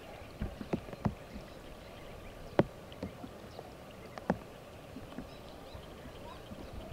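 Irregular splashes and knocks in water over a steady background hiss; the loudest comes about two and a half seconds in.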